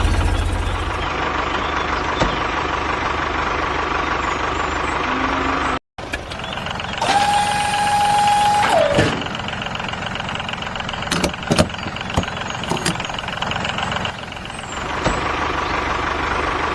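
A tractor engine running steadily, cut off abruptly about six seconds in. Then a steady horn-like tone sounds for about a second and a half and bends downward as it stops, followed by a few sharp clicks over a quieter engine hum.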